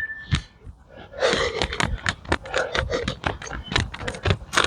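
A rapid run of sharp taps, several a second, starting about a second in.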